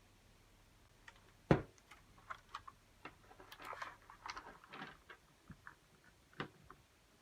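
Small hard clicks and clatter from a keyboard being handled during teardown: a sharp knock about a second and a half in, then a run of small clicks and rattles, and another knock near the end.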